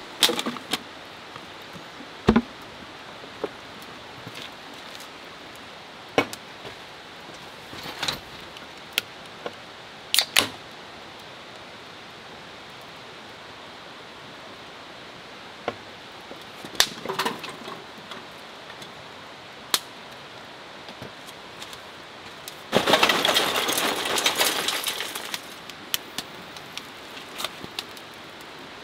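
Rain falling steadily, with scattered sharp cracks and ticks from small burning kindling. About three-quarters of the way through comes a rushing noise lasting about three seconds.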